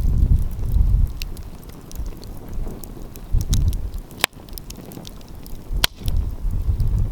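Wood fire crackling with scattered sharp snaps, two of them louder, a little past the middle, while gusts of wind buffet the microphone with a low rumble.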